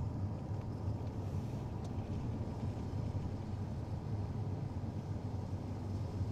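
Steady low hum of a motor vehicle's engine with road noise, as from a camera car driving ahead of the riders.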